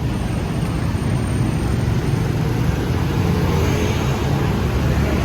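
Steady city street traffic: a continuous rumble of passing motor vehicles.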